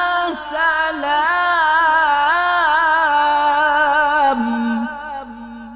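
A solo voice reciting the Quran in melodic tajweed style, drawing out one long vowel with wavering ornaments: a prolonged madd (elongation). The pitch drops lower about four and a half seconds in and the voice fades out shortly after.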